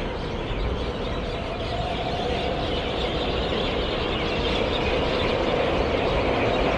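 Suburban electric train approaching through a rail cutting, its running noise growing steadily louder, mixed with road traffic passing overhead.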